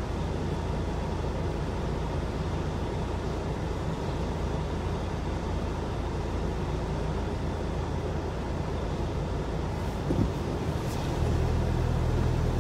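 Vehicle engine idling, a steady low rumble heard from inside a car's cabin. About eleven seconds in, a louder, deeper engine drone comes in.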